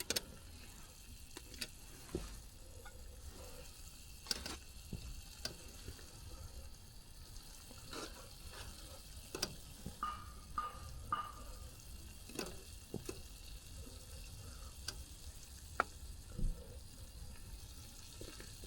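Scattered sharp clicks and light knocks over a faint steady hiss, with three short ringing clinks in quick succession about ten seconds in.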